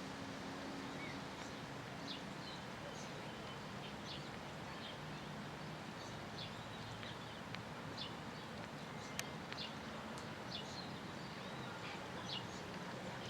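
Small birds giving short, scattered chirps over a steady background hiss, with a few sharp ticks in between.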